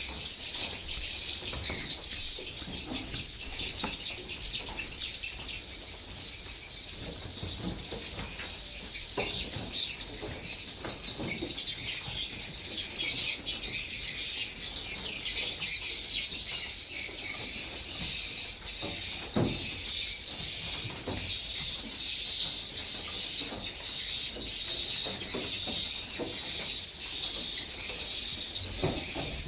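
A dense chorus of many edible-nest swiftlets twittering, high chirps overlapping without a break, with a few soft low thumps here and there.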